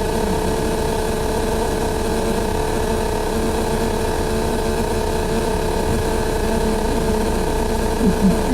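Loud, nonstop mechanical noise on the upper deck of a double-decker bus: a steady droning tone over a dense, even rattle that never lets up.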